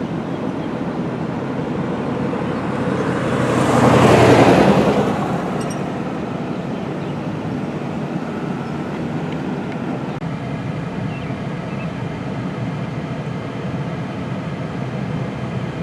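Steady traffic noise, with a vehicle passing close by about four seconds in, rising and fading over a couple of seconds.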